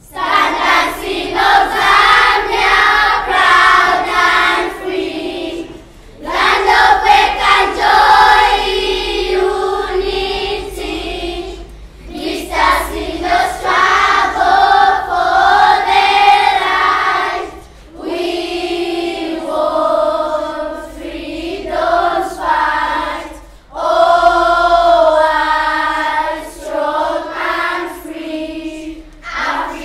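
A group of schoolchildren singing together, in phrases of about six seconds with a brief pause between each.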